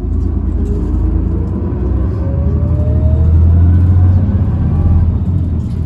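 Inside Tokyu Bus H854 under way: a steady low rumble with a whine that rises in pitch as the bus gathers speed, the odd motor noise this bus is known for.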